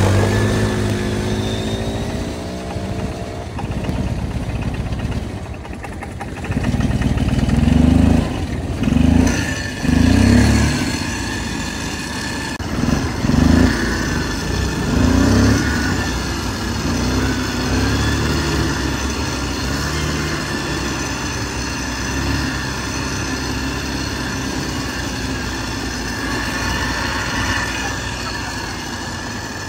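Dirt bike engine running, its pitch dropping at first, then revved in several loud surges for a while before settling into steadier running.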